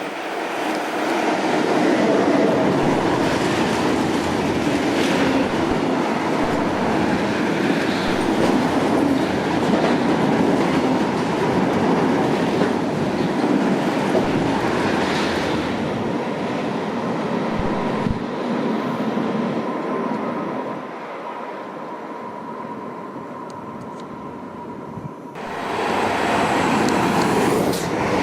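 A train running past on the tracks: a loud, steady rolling noise of wheels on rail with a thin steady high tone. It eases off about twenty seconds in, then rises sharply again near the end.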